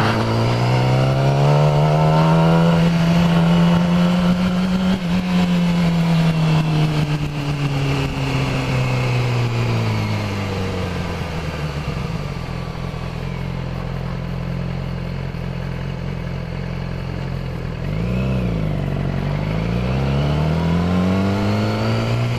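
Yamaha YZF-R6 inline-four engine heard from the bike itself. Its pitch rises as it pulls away, falls as the throttle rolls off, then holds steady at low speed. It gives a short rev up and down about three-quarters of the way through and rises again near the end.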